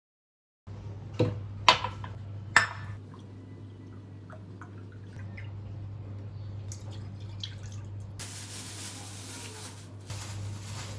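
Three sharp clinks, then a few light taps, and about two seconds of rushing water near the end, over a steady low hum.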